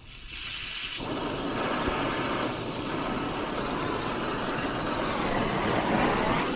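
Brazing torch flame hissing steadily, coming up during the first second, as a copper joint on the heat pump's reversing valve is heated.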